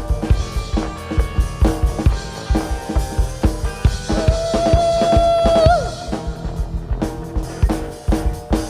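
Live rock band playing an instrumental passage: a drum kit keeps a steady kick-and-snare beat under the band. About halfway through, a single note is held for roughly a second and a half, then bends and cuts off.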